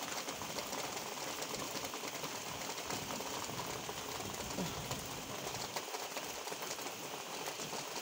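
Steady rain falling: a dense, even patter of drops hitting nearby surfaces.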